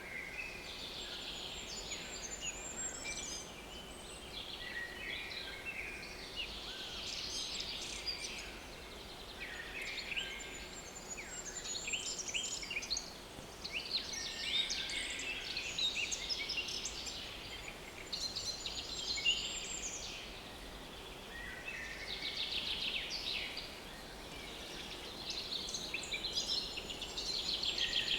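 Several small woodland songbirds singing in overlapping chirps and trills, with hardly a break between phrases.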